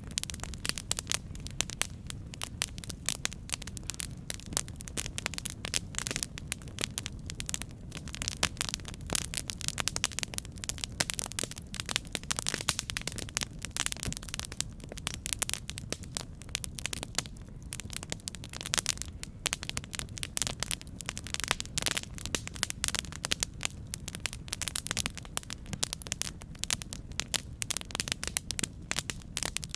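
Wood fire burning with dense, irregular crackling and popping over a steady low rumble.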